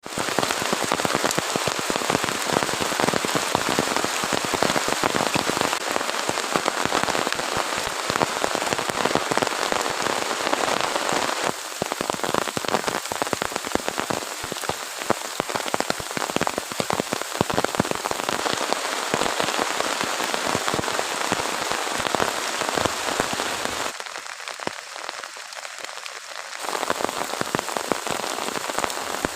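Heavy rain falling steadily on a hard surface: a dense hiss full of individual drop hits. About three-quarters of the way through it drops noticeably quieter for a couple of seconds, then comes back.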